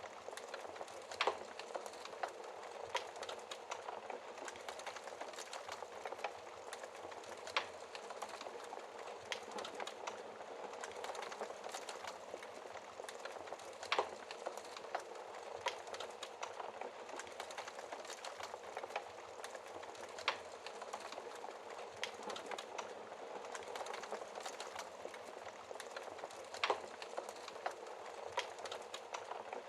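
Wood fire in a fireplace crackling steadily, with a sharper pop about every six seconds.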